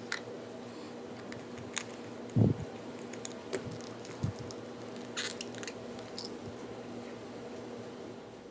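Small plastic action-figure parts being handled: scattered light clicks and taps, a quick cluster of clicks a little past five seconds in, and a dull knock about two and a half seconds in, over a steady low hum.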